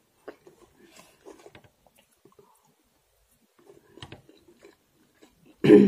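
Close-miked chewing and soft mouth sounds of a person eating vermicelli rice pilaf, with light clicks of a steel fork. A single louder, short knock comes near the end.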